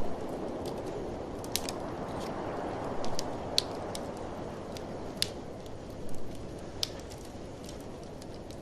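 Wood fire crackling in a fireplace, with irregular sharp pops and snaps over a steady rushing of blizzard wind.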